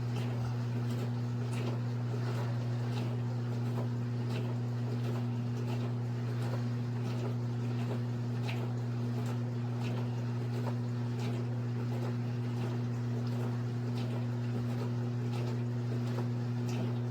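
COMFEE' portable countertop dishwasher running its wash cycle: a steady motor hum from the wash pump as it drives the spray arms, with faint irregular ticks of water splashing inside the tub.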